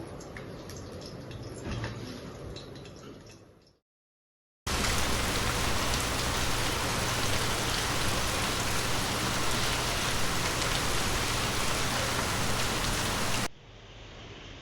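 Water running with small drips, fading out in the first few seconds. After a brief silence comes a steady, even sound of heavy rain, which cuts off abruptly near the end.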